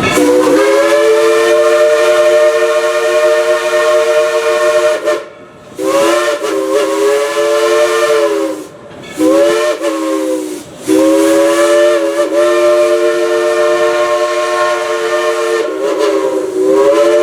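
Steam locomotive chime whistle, several notes at once, sounded in four blasts: two long, a short third, and a long final blast, the pattern of a grade-crossing signal. The pitch sags briefly as each blast is cut off.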